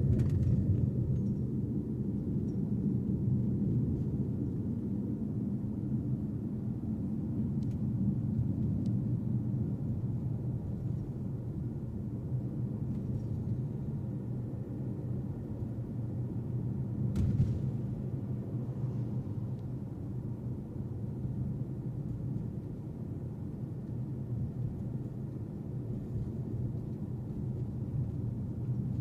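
Steady low road-and-engine rumble of a car being driven, with a single short knock about seventeen seconds in.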